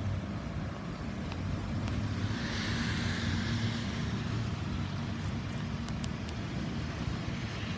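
2019 Dodge Grand Caravan SE's 3.6-litre V6 engine idling steadily. A brief hiss swells about three seconds in, and a few light clicks come near the middle.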